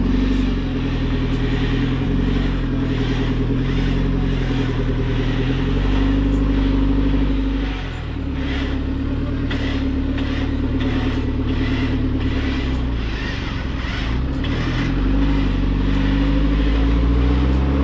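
Mahindra Thar's engine working hard under load, its revs stepping up and down, as it tries to climb a steep rocky slope while being pulled on a tow strap. The revs drop briefly about halfway, and a run of sharp clicks comes in the middle.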